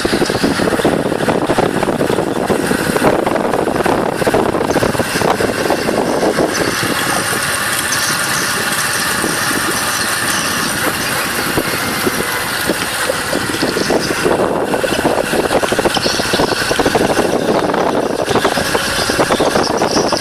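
Motorbike riding along with its engine running, heavily buffeted by wind noise on the microphone.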